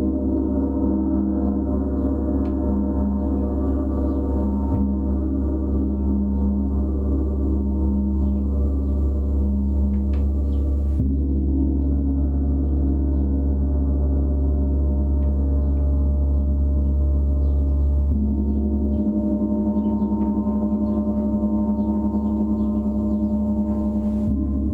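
A gong played in a continuous, sustained wash of overlapping tones with a deep low hum, its tone shifting as it is played anew about 11 seconds in, again about 18 seconds in and near the end.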